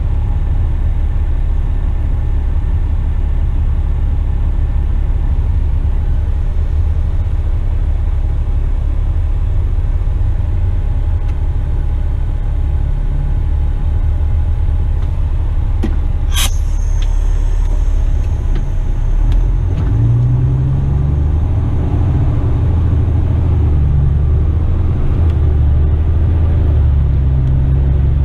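Western Star tipper truck's diesel engine and road rumble heard from the cab while driving. A sharp click comes a little past halfway. From about two-thirds in, the engine note grows stronger and steps up and down in pitch.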